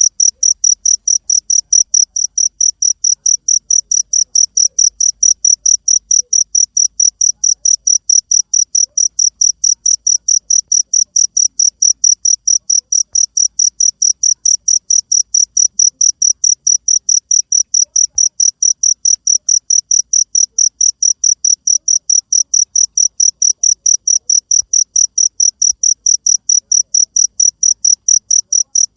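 Cricket chirping in an even, unbroken rhythm of about three high-pitched chirps a second.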